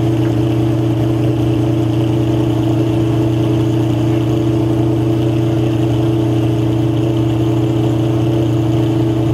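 McLaren F1's BMW 6.1-litre V12 idling steadily at one even pitch.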